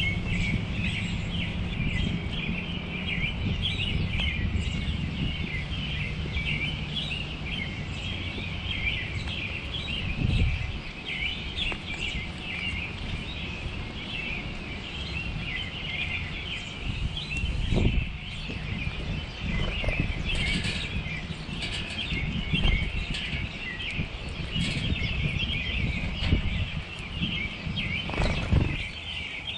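Many small songbirds chirping continuously over a low steady rumble, with a few brief low thumps, about a third of the way in, just past halfway and near the end.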